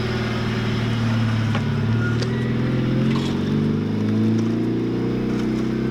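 Honda Civic's four-cylinder engine running on a test drive, its pitch rising a little about two seconds in as the car speeds up, then holding steady.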